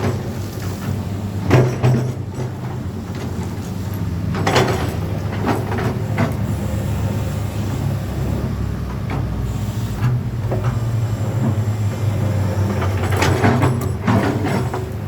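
Diesel engine of an old Komatsu PC200-6 hydraulic excavator running steadily with a low drone. A few brief, sharper noises stand out over it, about a second and a half in, near four and a half seconds, and near the end.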